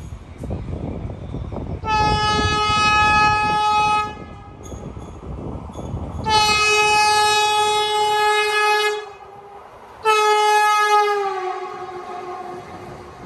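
Train horn sounding three times: a blast of about two seconds, a longer one of nearly three seconds, then a shorter one that sags in pitch as it dies away. Under the first two, the low rumble of a train running on the track, which fades out after the second blast.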